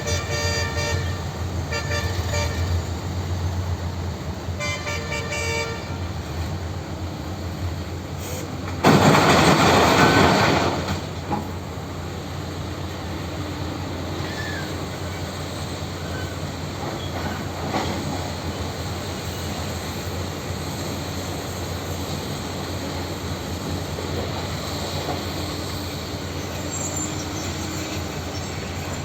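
Heavy machine engine running steadily. Twice in the first six seconds a steady pitched tone sounds for a second or so, and about nine seconds in a loud, harsh rushing noise lasts about two seconds.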